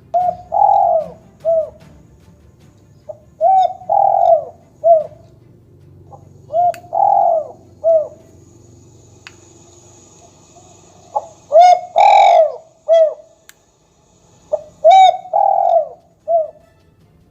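Dove cooing played back through an electronic bird caller speaker: five phrases a few seconds apart, each made of three or four coos with one longer coo among them.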